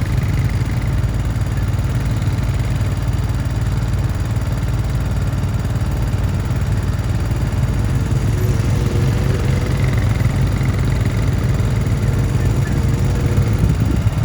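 Quad bike engines running steadily at a low, even pitch throughout.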